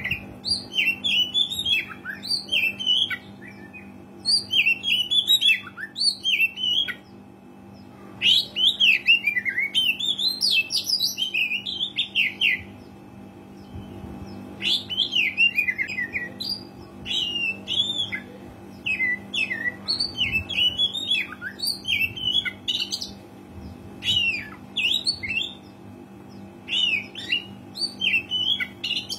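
Oriental magpie-robin singing in fast, varied phrases of whistled and chattering notes, each phrase a second or two long with short pauses between. A steady low hum runs underneath.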